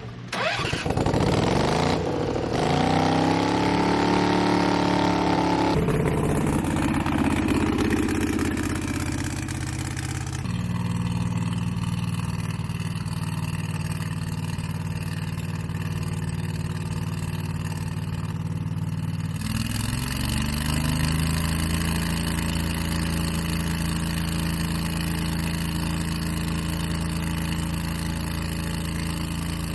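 The gas engine of a piece of landscaping power equipment revs up and runs at high speed. It settles to a lower steady speed about ten seconds in, then picks up slightly again near two-thirds of the way through.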